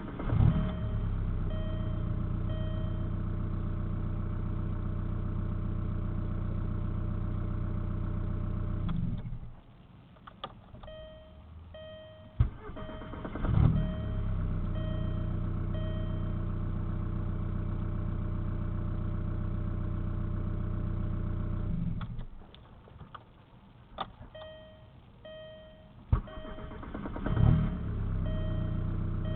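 Volkswagen TDI diesel engine starting after a brief crank and idling, then switched off and restarted, three starts in all. Between runs come short clicks and a steady beeping tone.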